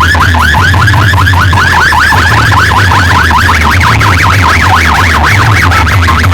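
Very loud DJ sound-system speakers playing a siren-like electronic tone that warbles rapidly up and down several times a second, over heavy bass.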